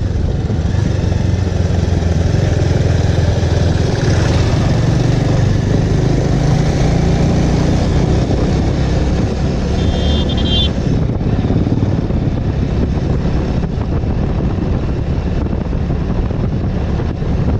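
Bajaj Avenger cruiser's single-cylinder engine running steadily at riding speed, its pitch rising a little a few seconds in, with a steady rush of wind over the microphone.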